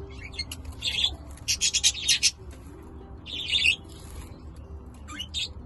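Budgerigars chirping in several short bursts, with fluttering and flapping of wings as they bathe in a bird-bath.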